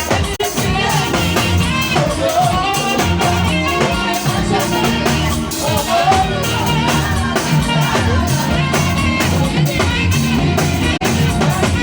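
Saxophone playing a praise tune over a full band backing with a steady beat.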